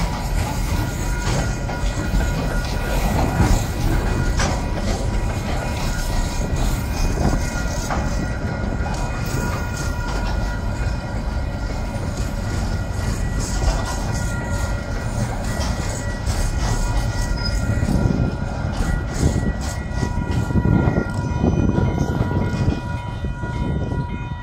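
Loaded container flat wagons of a freight train rolling past close by: a steady rumble with wheels clattering over the rail joints, and thin steady high-pitched tones running underneath throughout.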